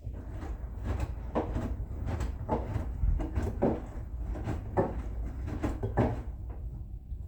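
Bosch Serie 6 front-loading washing machine running a wash: a steady low rumble, with the wet laundry swishing in the turning drum about once a second.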